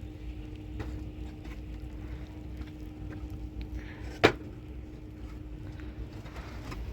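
A few light knocks and one sharp knock about four seconds in, over a steady low rumble and a faint steady hum.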